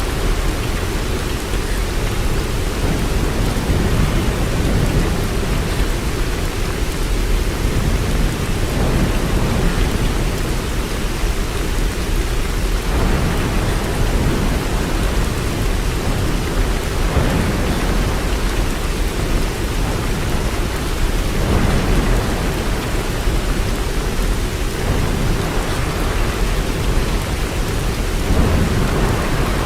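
Heavy rain falling steadily, with a constant deep low rumble beneath it and gentle swells in level every few seconds.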